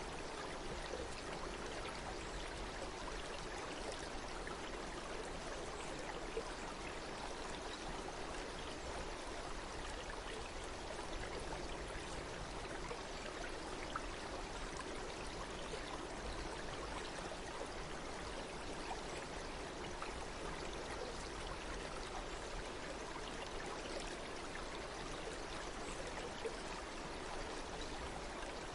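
Flowing water running steadily, an even rush that does not change.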